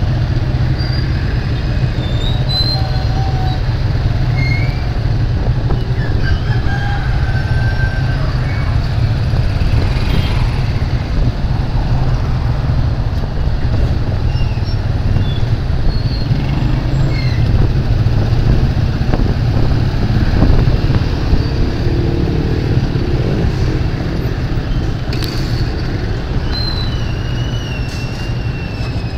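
Steady low rumble of a motorcycle riding through street traffic, with short high chirps and squeaks scattered over it.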